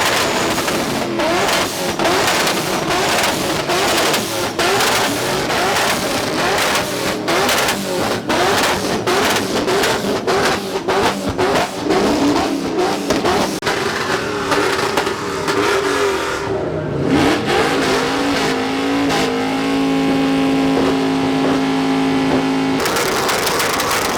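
Truck engine revving hard with tyres spinning and squealing, as in a burnout. Late on, the engine holds one steady high note for a few seconds before it changes.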